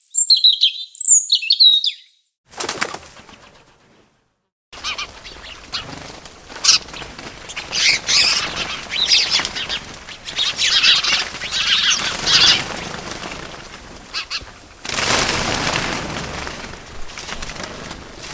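Small birds chirping in quick, high, sweeping notes, then wings flapping and rustling with more chirps through it. The sound comes in separate pieces with brief silent gaps.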